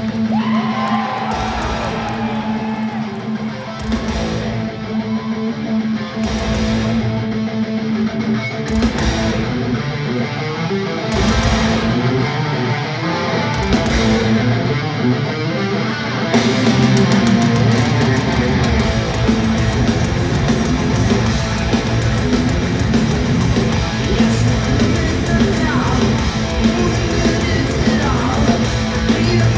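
Heavy metal band playing live, electric guitars to the fore. Heavy low accents come about every two and a half seconds at first, and the full band with drums plays continuously from about 16 seconds in.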